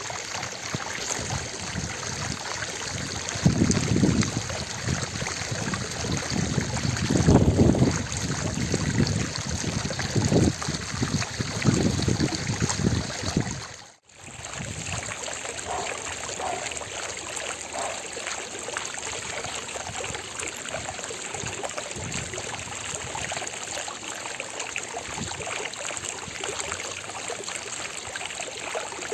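Water from a fountain splashing steadily, an even rushing hiss. Several louder low surges come and go in the first half, and the sound drops out for a moment about halfway before carrying on evenly.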